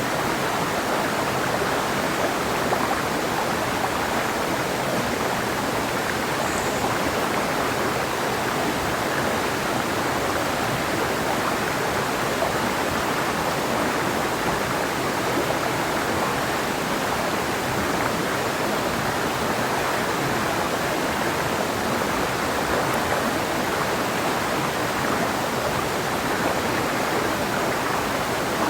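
Clear mountain river flowing, a steady, even rushing of water.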